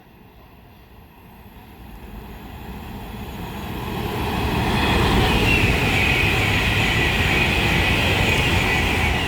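Avanti West Coast Class 390 Pendolino electric train passing through. The rush of its wheels on the rails grows louder over about four seconds, then stays loud with a high ringing whine on top.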